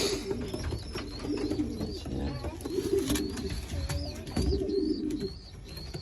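Pigeons cooing in the loft, several low drawn-out coos, over a thin high peeping repeated about twice a second.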